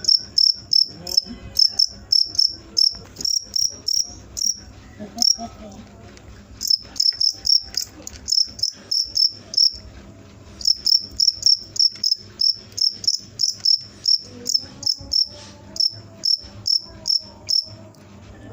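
A cricket chirping close and loud: short, high chirps repeated about three times a second, with two brief pauses about five and ten seconds in.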